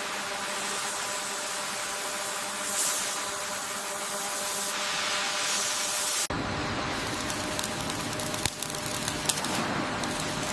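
A steady, bright hiss like spraying or grinding, with faint steady hum tones under it, that cuts off abruptly about six seconds in. It gives way to a lower, rumbling work noise with scattered clicks and knocks.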